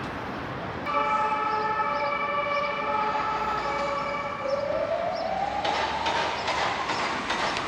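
Lisbon metro train with a steady electric whine of several tones, then a whine rising steadily in pitch as the train pulls away and picks up speed, with wheel and carriage rattle growing near the end.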